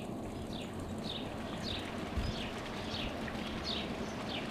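A bird calling: a short, high, falling note repeated steadily about every half second, over faint outdoor background noise.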